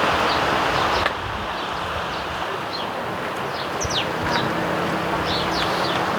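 House sparrows chirping from a hedge: many short, quick chirps over a steady rushing background that eases a little about a second in.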